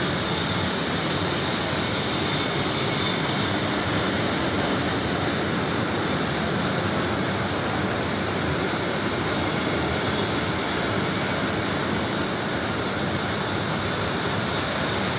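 Freight train of loaded double-deck car-carrier wagons rolling past close by: a steady, even noise of wheels running on the rails.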